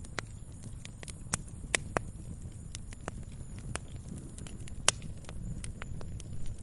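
Wood fire crackling in a fireplace: irregular sharp pops and snaps over a low steady rumble of burning, with the loudest pop a little before five seconds in.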